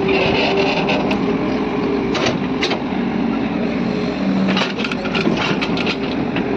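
Sany SY215C excavator's engine and hydraulics running steadily under work, with a series of sharp metallic clanks, two at about 2 s and a quick cluster between about 4.5 and 6 s.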